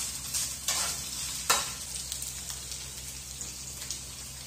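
Pork chorizo and sliced sausages sizzling as they fry in the chorizo's own rendered fat in a skillet. A few short knocks of a utensil against the pan come in the first second and a half, the loudest about a second and a half in, and then the frying goes on steadily.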